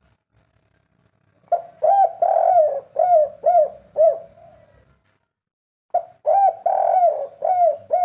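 Spotted dove cooing twice, about four seconds apart. Each phrase is a few coos that end in three short, clipped notes, the 'kuk 3' song type.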